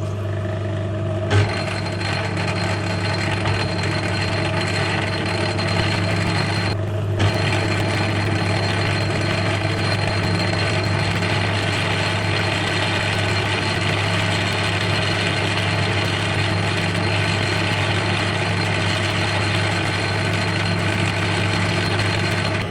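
Small metal lathe running at about 200 RPM with a steady motor hum while a tool, fed by hand, cuts stainless steel stock; a continuous cutting hiss comes in about a second in and holds steady.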